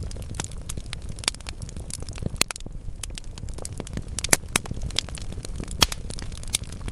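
Wood fire burning in a fireplace: a steady low rumble of flames under irregular crackling, with a few louder sharp pops from the logs.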